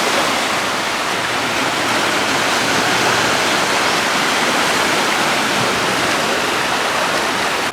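Waterfall pouring: a loud, steady rush of falling water with no break or change.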